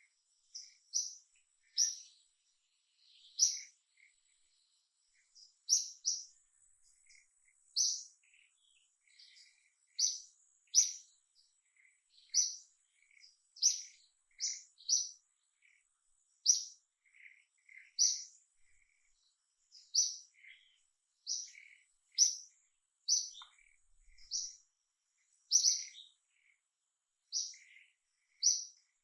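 A bird chirping: short high calls repeated about once or twice a second.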